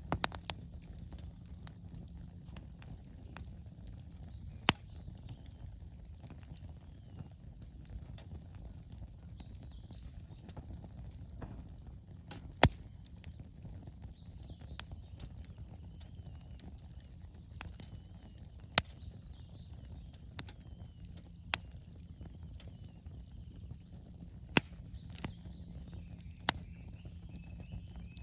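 Wood campfire burning with a steady low rumble and scattered crackles, about six of them sharp, loud pops of the burning wood.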